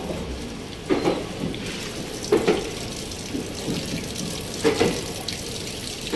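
Passenger train pulling slowly out of a station, heard from an open coach door: a steady rushing noise with a knock from the wheels every second or so.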